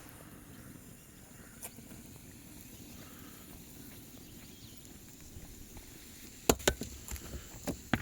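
Faint steady outdoor background noise, then a quick series of about six sharp clicks and knocks in the last second and a half.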